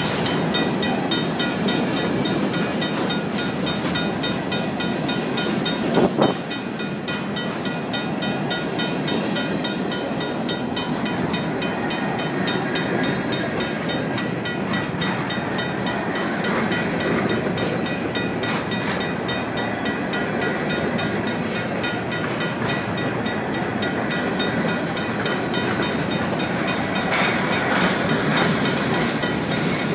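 Loaded covered hopper cars of a Union Pacific grain train rolling past close by, steel wheels running over the rails with a steady rumble and clatter, a sharp clank about six seconds in. A crossing bell rings rapidly over it.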